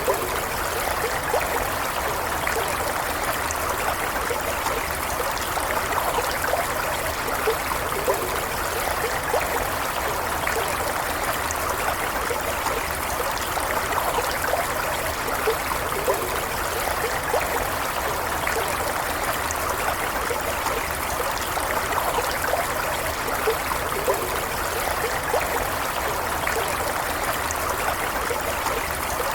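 A small stream of running water flowing and trickling steadily, with many small quick gurgles and splashes over an even rush.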